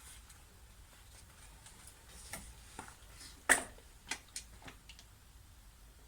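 A few light, sharp clicks and knocks, the loudest about three and a half seconds in, with no engine running.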